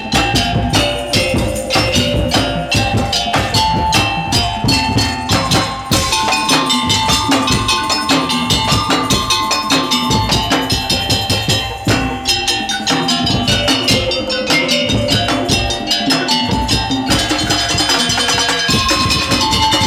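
Madurese daul (tong-tong) percussion ensemble playing: fast, dense drumming and knocking at a steady beat under a repeating melody line.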